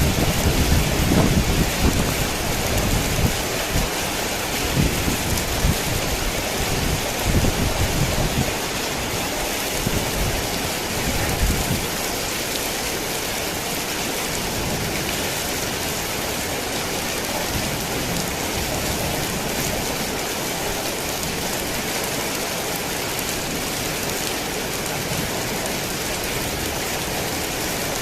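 Heavy rain falling steadily in a dense hiss. A low rumble of thunder rolls through the first twelve seconds or so, then dies away, leaving only the rain.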